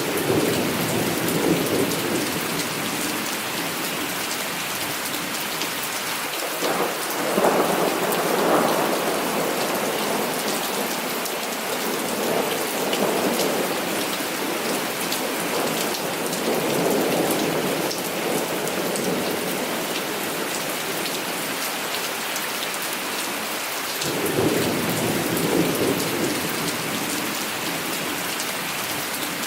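Heavy rain falling steadily, with several rolls of thunder: one at the start, a louder one about seven seconds in, more rumbling through the middle, and another roll near the end.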